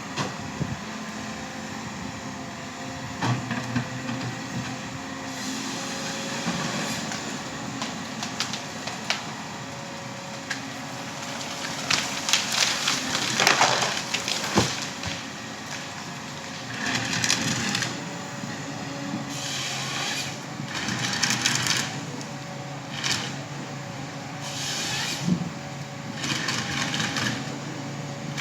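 Forestry harvester at work: its engine runs steadily under repeated bursts of wood cracking and crushing as trees are felled and processed, loudest about halfway through.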